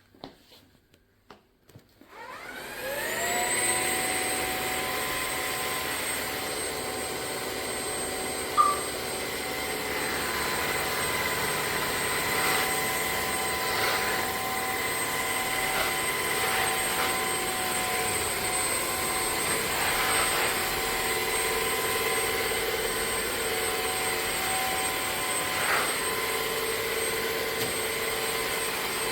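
Bissell CrossWave OmniForce wet-dry vacuum switching on a couple of seconds in: its motor spins up with a rising whine, then runs steadily with a high whine. Scattered light knocks and one short sharp sound come a few seconds after it starts.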